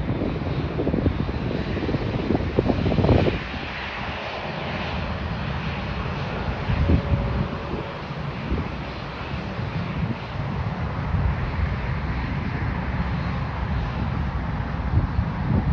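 Airliner jet engines running, a continuous rumble and hiss from an aircraft moving on or near the runway, louder in the first three seconds.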